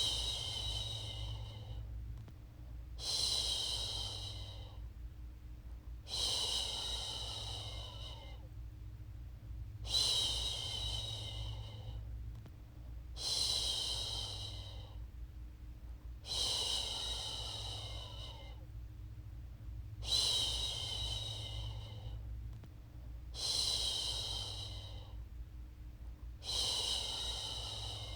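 A woman shushing, a long breathy "shhh" repeated about every three seconds, nine times, each starting sharply and fading away. A steady low hum runs underneath.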